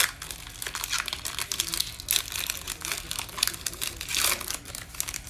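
Plastic wrapper of a Panini Mosaic football card pack crinkling as it is torn open and handled: a dense, irregular run of crackles.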